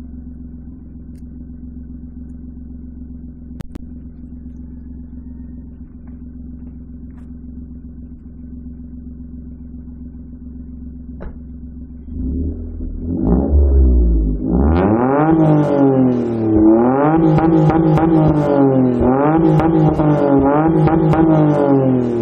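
Maruti Suzuki Alto K10's three-cylinder engine running through a free-flow exhaust. It idles steadily for about twelve seconds, then is revved again and again, the pitch rising and falling with each blip, and it runs louder and higher toward the end.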